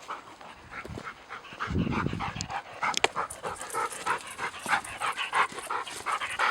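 Dog panting hard and fast after chasing a ball, about three breaths a second. A brief low rumble comes about two seconds in, and a single click a second later.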